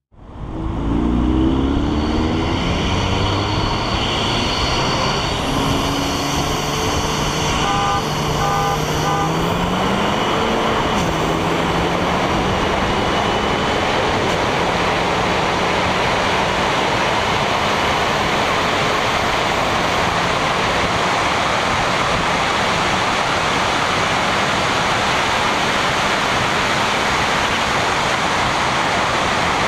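Car accelerating at full throttle, its engine note rising steadily, dropping at a gear change about ten seconds in, then pulling again. From then on a loud, steady rush of wind on the externally mounted camera's microphone covers most of the engine sound.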